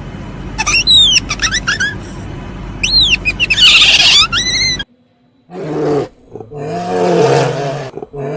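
A bird calls with a string of sharp, falling whistles and a harsh screech near the end, over a low steady hum. After a sudden cut, a big cat roars in long, low, drawn-out calls.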